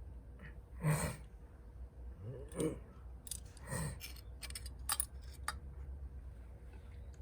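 Three short rustling scrapes about a second or so apart, then a quick run of sharp clicks and snaps, as objects are handled.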